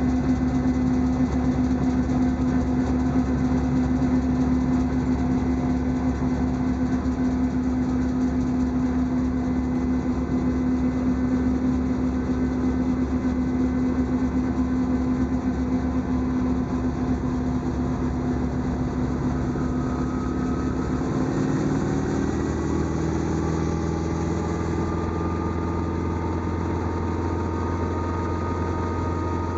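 Helicopter turbine and rotor running with a steady hum and whine. About two-thirds of the way through, the pitch of its tones shifts and a low hum grows stronger.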